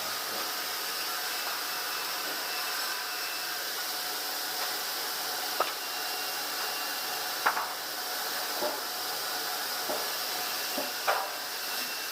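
A steady hiss of running machinery or air, with about five short, sharp knocks at uneven intervals in the second half.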